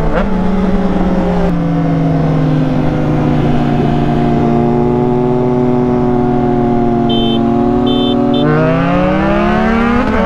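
Triumph Trident 660's inline three-cylinder engine pulling hard with wind noise. The revs drop in one step with an upshift about a second and a half in, ease down slowly, then rise steadily again near the end as it accelerates.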